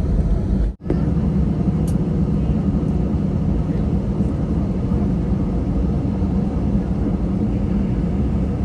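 Steady jet-engine and airflow noise inside an airliner cabin, heavy in the low end, cutting out completely for a moment about a second in.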